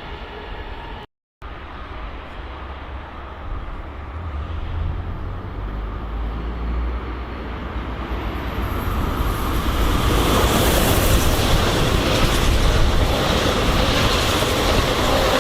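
A train approaching and passing, its noise building steadily over several seconds and staying loud over the last few seconds. The sound cuts out completely for a moment about a second in.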